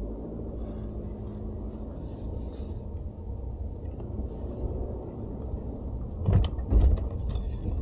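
Car engine running with a steady low rumble heard from inside the cabin, with a few louder thumps about six to seven seconds in.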